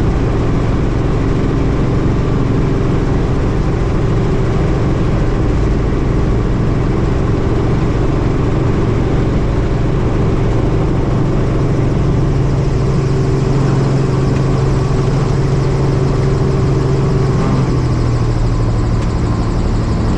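Helicopter turbine and rotor running steadily, a constant low hum that drops slightly in pitch near the end.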